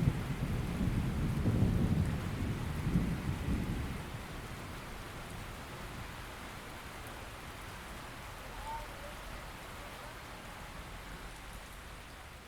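Steady rain falling, with a rolling rumble of thunder through the first few seconds that dies away about four seconds in, leaving the even hiss of the rain.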